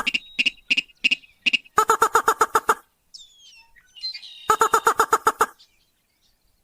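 Recorded lure call of a rail (sintar / mandar padi): rapid runs of harsh, clipped notes, about ten a second, in bursts of about a second. Single notes fall between the first bursts. Faint high chirps from another bird sound in a gap about halfway through.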